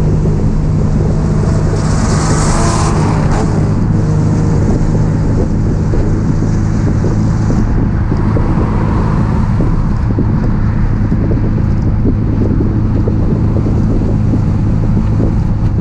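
1966 Triumph Spitfire's four-cylinder engine running steadily on the road, heard from inside the open roadster with wind rushing over the microphone. About two seconds in, a brief rushing swell rises and fades.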